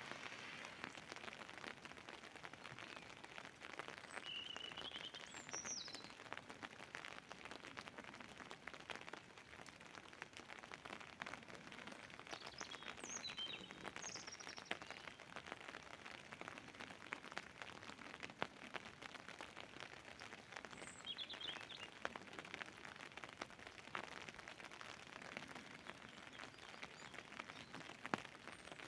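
Rain falling steadily, a soft hiss full of small drop ticks. A bird chirps briefly four times over it.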